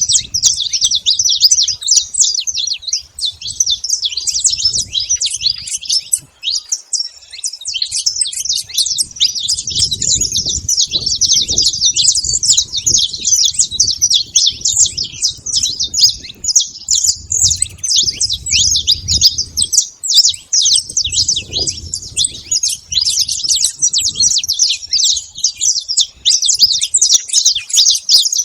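Saffron finch (canário-da-terra) singing continuously: rapid, high chirping phrases with barely a break, and a faint low rumble underneath at times.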